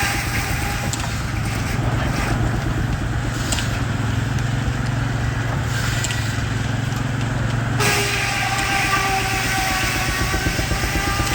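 Baker 23-90 uniflow steam traction engine running under belt, its exhaust beating rapidly, with a steady whine from the running sawmill. The higher sound changes about eight seconds in.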